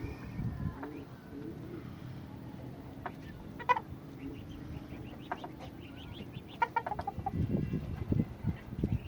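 Domestic birds calling with short, sharp calls: one about four seconds in, then several in quick succession near seven seconds, over low bumps and rustling.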